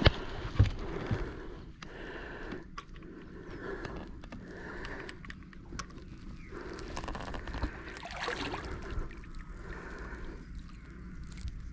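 Water lapping and gurgling against the side of a small aluminium boat, with a few light knocks and scrapes.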